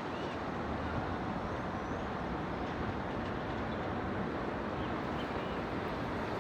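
Distant city traffic: a steady rumble and hiss of many vehicles, with a few faint, short high chirps from urban birds.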